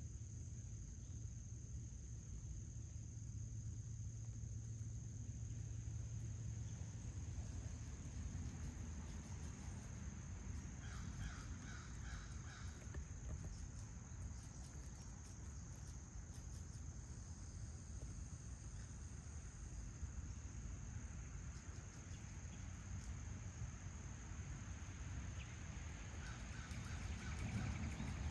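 Steady insect chorus, a constant high-pitched trill, over a low outdoor rumble. Twice a short run of quick chirping calls cuts in, about eleven seconds in and again near the end.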